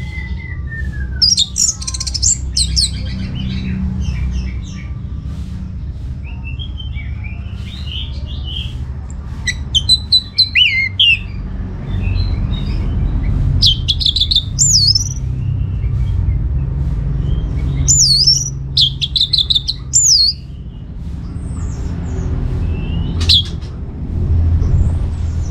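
Orange-headed thrush singing in separate bursts of quick, high-pitched whistled notes and swooping phrases every few seconds, over a steady low rumble.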